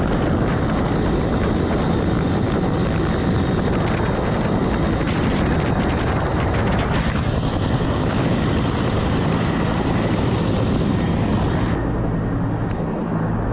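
Helicopter rotor and turbine noise, loud and steady with a heavy low rumble. Near the end the sound changes abruptly and loses its high hiss.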